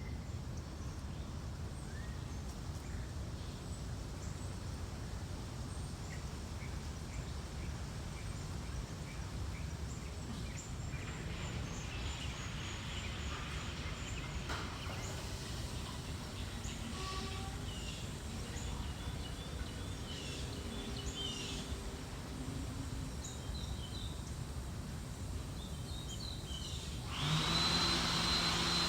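Steady low background rumble with a few short bird chirps; near the end an electric hand dryer switches on suddenly and runs loudly, with a low hum and a high whine.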